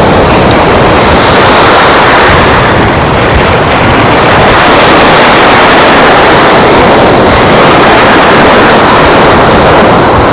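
Loud, steady rushing of wind and surf on an open beach, with wind buffeting the microphone; the noise swells and eases slowly.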